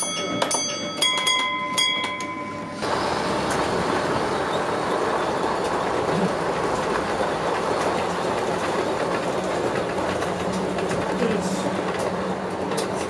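An O gauge model train running along the track, a steady rush of wheel-on-rail and motor noise that starts abruptly about three seconds in. Before it come a few sharp metallic clicks and short tones.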